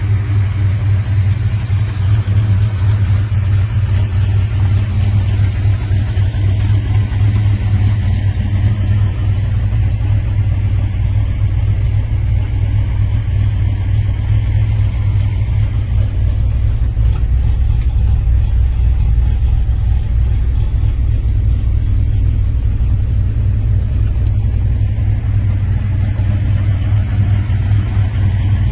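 Big-engined muscle car running at low speed, a steady, deep engine rumble with no sharp revs.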